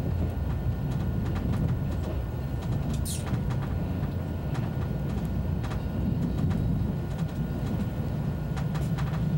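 ICE high-speed train running: a steady low rumble with faint scattered clicks, and a brief high squeak about three seconds in.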